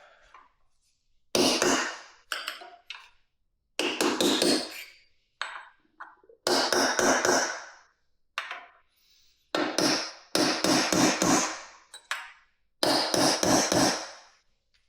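Hammer blows in quick groups of several strikes, repeated every second or two, struck to shock loose stuck screws.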